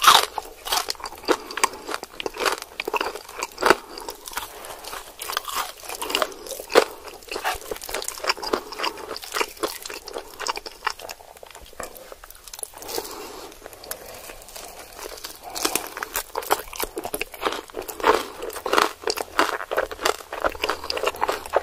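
Close-miked biting and chewing of crispy fried chicken: dense crunching, easing off for a few seconds near the middle before picking up again.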